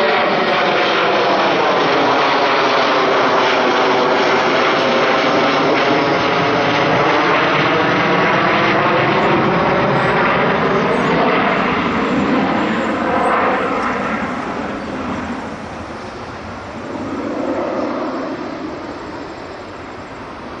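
A jet airliner passing close by. Its engine roar is loud and steady with a sweeping, phasing sound, then fades away from about twelve seconds in.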